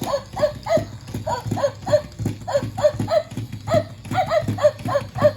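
Rhythmic clip-clop like trotting hooves, about three knocks a second, each with a short falling chirp-like tone, most likely a sound effect within the edited-in background music.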